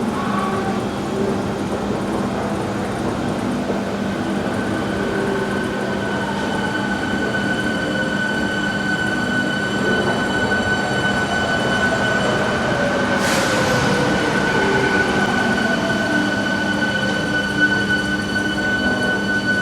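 VAL automatic rubber-tyred metro train running, with a steady electric whine and a motor tone that falls in pitch as it slows. There is a short burst of air hiss about 13 seconds in.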